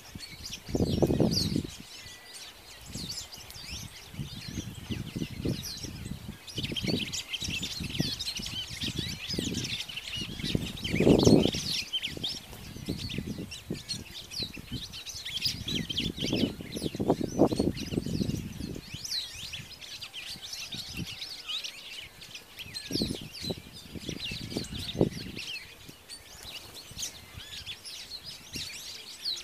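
Many small birds chirping and twittering at once in a continuous chorus, with low rumbling bursts about a second in, around eleven seconds in, and again for a couple of seconds in the middle.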